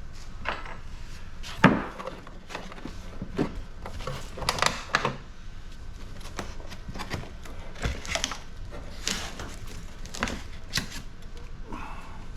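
Scattered knocks and clatter of hand tools and sheet-metal and plastic parts being handled while an air-conditioning unit is taken apart for scrap. A sharp knock about a second and a half in is the loudest.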